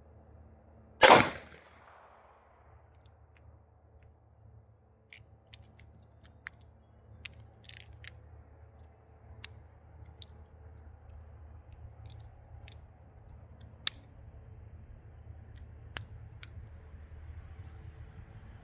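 A single sharp shot from a tiny .22 Magnum credit-card folding pistol about a second in, ringing out briefly. It is followed by a scatter of small faint clicks as the little gun is handled and cocked between shots.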